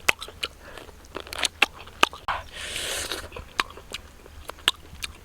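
A person eating, biting and chewing food with crisp crunches and wet mouth clicks, plus a longer hissing noise just before the middle.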